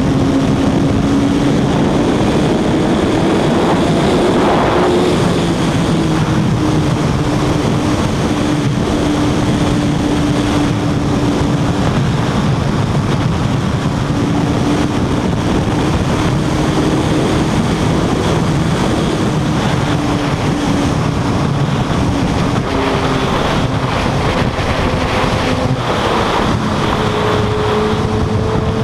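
Suzuki GSX-R1000 inline-four engine running at high speed, its pitch drifting up and down with the throttle and jumping higher about 27 seconds in, under heavy wind rush on the microphone.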